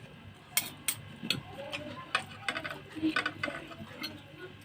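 Close-miked eating sounds: chewing with irregular small clicks and smacks of the mouth, while noodles are being eaten.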